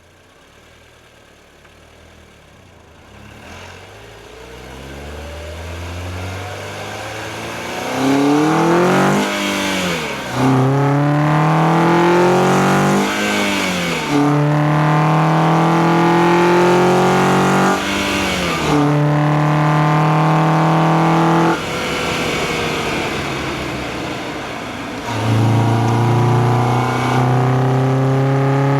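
Acura TSX K24A2 inline-four engine, heard through an engine-bay microphone with its intake noise, accelerating. It pulls gently at first, then revs hard through several gears: the pitch rises in each gear and drops suddenly at each upshift. Near the end it eases off briefly before pulling hard again.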